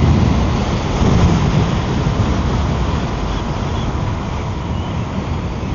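Strong wind buffeting the microphone on a moving electric scooter: a loud, steady low rumble.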